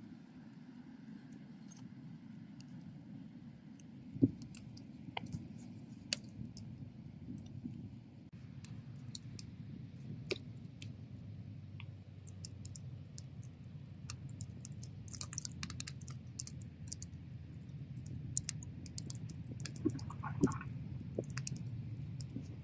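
Wood bonfire burning: irregular sharp crackles and pops of burning wood over a steady low rumble of the flames, with one loud pop about four seconds in and denser crackling in the second half.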